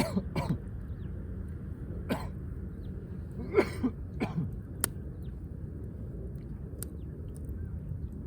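A person coughing several times in short bursts and clearing their throat, with one sharp click about five seconds in, over a steady low rumble.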